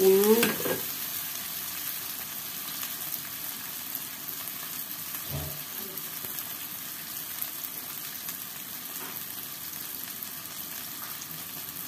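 Onions and freshly added tomato pieces sizzling steadily in hot oil in a wok as they are stir-fried with a metal spatula, with one short knock about five seconds in.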